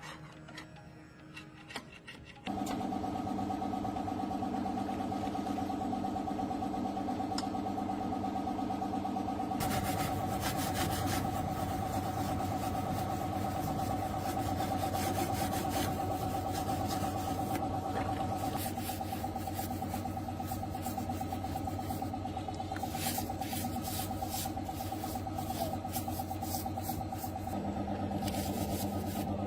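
Light rubbing or filing at first, then about two seconds in an old tractor's diesel engine is heard running steadily, with some clicking near the middle and the end.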